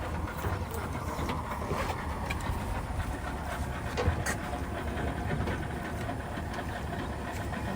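A vehicle running steadily, a low engine and road rumble with scattered light clicks and rattles.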